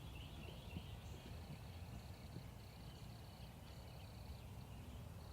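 Faint woodland ambience: small birds chirping and an on-and-off high trill, over a low rumble.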